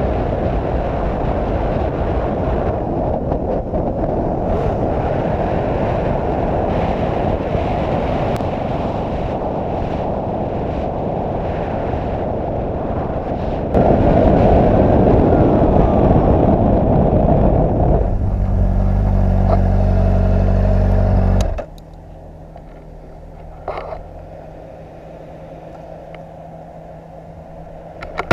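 Motorcycle being ridden, its engine buried in a loud rush of noise that grows louder about halfway through. A steady engine note comes through near the end. About three quarters of the way in the sound drops sharply to a quieter, steady low idle.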